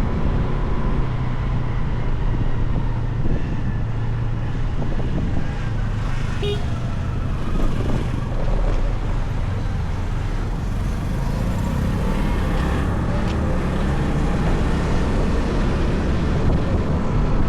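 Motorcycle engine running steadily at cruising speed, with road and wind noise and surrounding city traffic.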